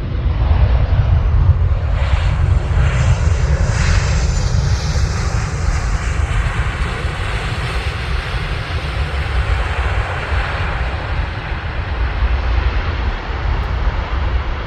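Boeing 737-800 airliner's jet engines as it passes low on final approach to land: a rushing jet noise that swells a couple of seconds in, its pitch falling around four to five seconds in, then slowly fades.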